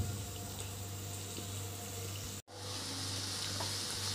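Chopped onions sizzling in hot oil in a kadhai: a steady, quiet hiss over a low hum. The sound drops out for an instant about two and a half seconds in, and a wooden spatula stirs the onions near the end.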